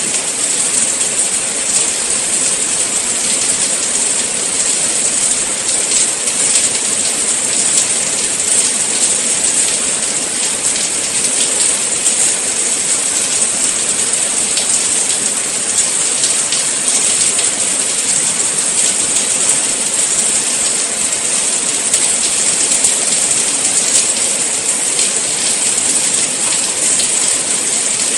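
Steady rain falling, an even hiss with a fine patter of drops that holds at the same level throughout.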